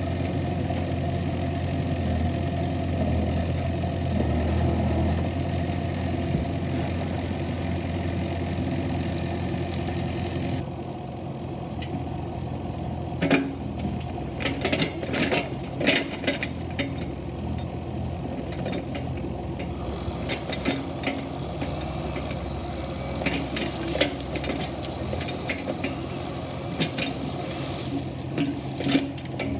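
Kubota KX71-3 mini excavator's diesel engine running steadily. From about thirteen seconds in, scattered sharp knocks and clanks sound over it.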